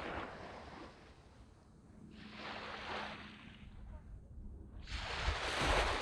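Small waves breaking and washing up a sandy beach: three surges of surf noise that swell and fade, the last and loudest near the end.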